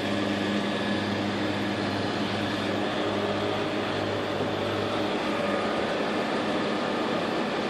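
A motor running steadily, a low even hum with a faint whir above it.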